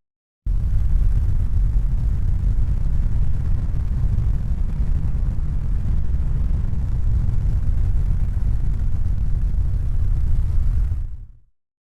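Steady deep rumble, a noise heaviest in the bass with no distinct tones or rhythm. It starts abruptly about half a second in and fades out about a second before the end.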